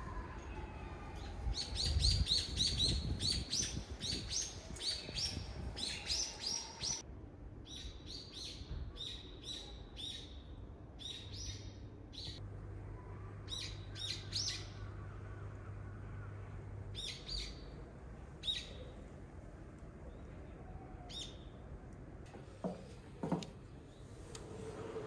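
Small birds chirping: a quick flurry of repeated high chirps in the first few seconds, then scattered single chirps. Two short knocks near the end.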